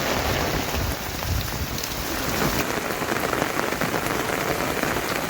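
Steady rain falling hard, with many individual drops striking close by, and a low rumble swelling and fading about one to two seconds in.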